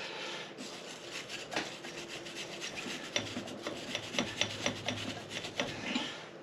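Quick hand scraping or scrubbing strokes, several a second with sharp clicks among them, from cleaning caked grime off engine parts.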